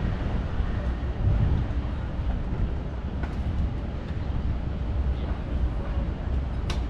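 Street traffic ambience: a steady low rumble of passing vehicles, with a sharp click near the end.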